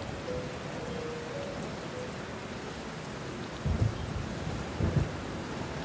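Steady rain falling, with two short low thumps about a second apart past the middle.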